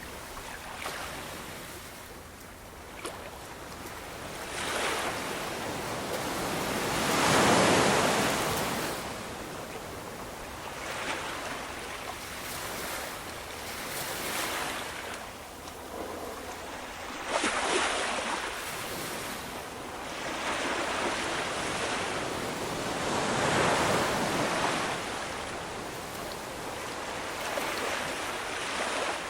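Ocean waves: a steady rush of surf that swells and fades as each wave comes in. The biggest surges come about 7 seconds in and near 24 seconds, with a sharper crash about 17 seconds in and smaller washes between.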